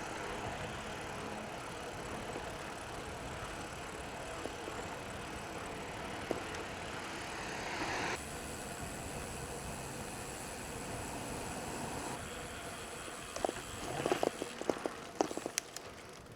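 Steady road noise from riding a bicycle: a rush of wind and tyres on the road, with a run of sharp clicks and rattles near the end.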